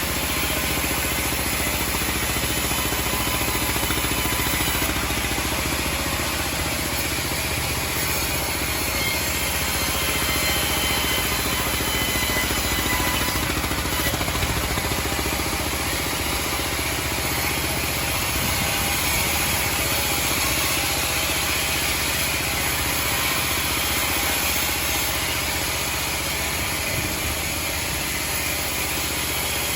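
Homemade band sawmill running, a steady, unbroken machine noise.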